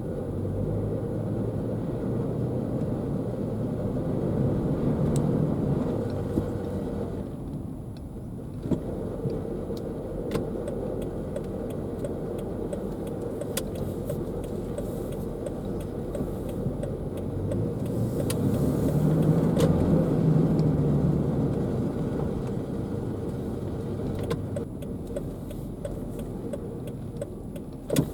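Car driving, its engine and road noise swelling and easing, with scattered short sharp clicks over the top.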